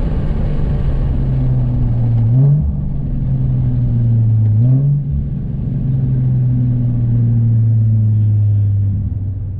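Car engine and exhaust running at a steady note, with two short rises in engine speed about two and five seconds in before it settles back to a steady drone.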